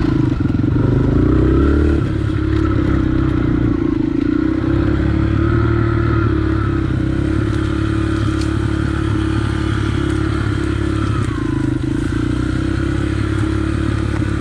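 Yamaha TTR dirt bike's single-cylinder four-stroke engine running under steady part throttle while riding a trail. It revs a little higher for the first two seconds, then settles, with light rattles over the rough ground.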